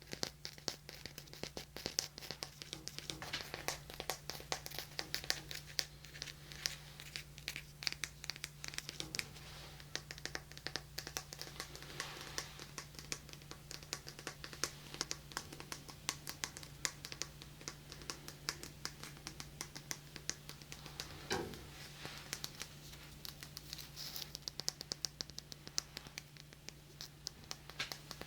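Fingertips tapping and scratching close in on a binaural microphone, a dense, irregular run of quick crackly clicks, over a steady low electrical hum.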